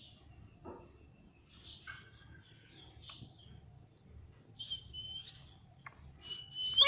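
Indian ringneck parrot making soft, scattered chirps and short whistles between its talking calls. Near the end a held whistle rises into a loud call.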